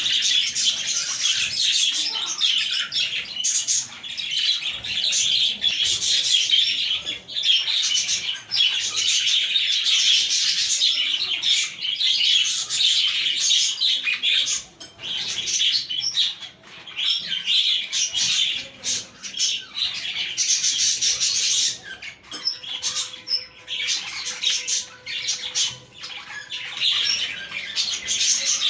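A group of budgerigars chattering and warbling all at once, a dense, busy mix of chirps and sharp clicks. The chatter breaks into shorter bursts over the last several seconds.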